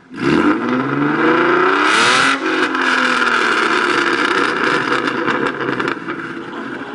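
2012 Mustang's 3.7 L Cyclone V6 through Borla long-tube headers, off-road X-pipe and ATAK cat-back exhaust, revving loud with the pitch rising for about two seconds, then dropping suddenly and holding steady before fading near the end.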